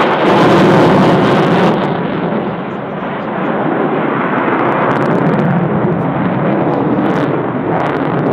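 Jet noise from a Eurofighter Typhoon's two EJ200 turbofan engines as the fighter flies its display: a loud, steady rushing roar, strongest in the first two seconds, easing briefly about two and a half seconds in, then building back.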